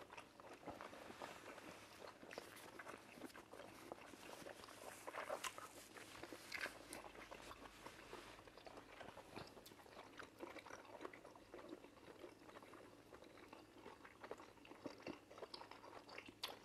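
Faint eating sounds close to the microphone: wet chewing, lip smacks and small mouth clicks as cocoyam fufu and ofe nsala soup are eaten by hand, scattered irregularly throughout.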